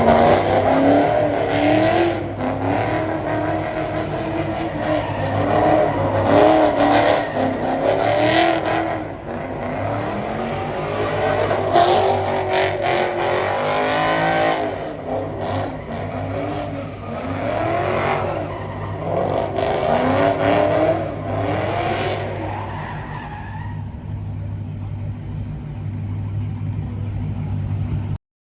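Car engines revving up and falling back again and again over a steady low engine hum; the sound stops abruptly near the end.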